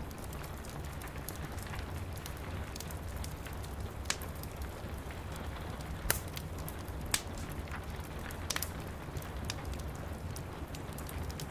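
Wood fire crackling in a fireplace, with scattered sharp pops, the loudest about halfway through, over steady rain and a low rumble.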